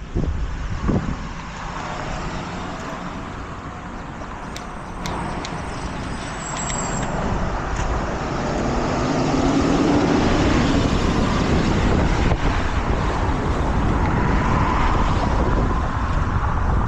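Road traffic passing the bike, heard over wind noise on the microphone; the vehicle noise swells and stays louder from about halfway through.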